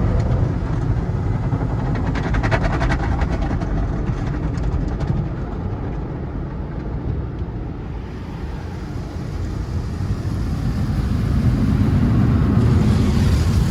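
Automatic tunnel car wash machinery running: a steady low rumble with a wash of noise, a patch of rapid ticking in the first few seconds, and a higher hiss rising near the end.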